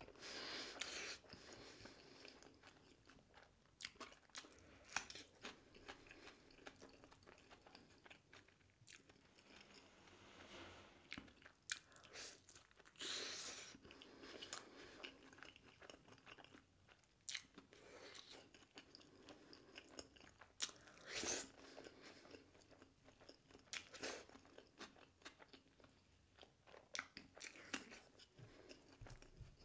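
Close-miked mouth sounds of a person eating rice and egg curry by hand: chewing, wet lip smacks and many sharp clicks, with a few louder bursts of chewing.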